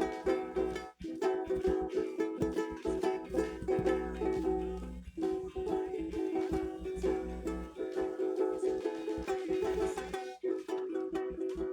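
A strummed acoustic stringed instrument plays chords in a steady run of quick strokes, with no singing. The playing breaks off briefly about a second in, around the middle, and near the end.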